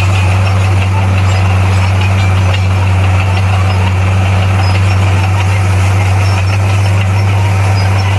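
A bulldozer's diesel engine running steadily with a constant low hum, loud and unchanging in pitch.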